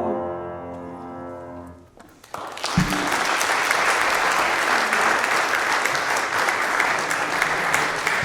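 The last held chord of the women's singing dies away over the first two seconds, then a congregation bursts into steady applause that lasts to the end.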